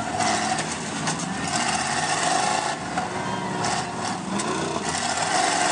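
Engines of several derby trucks running and revving together in a continuous, noisy din.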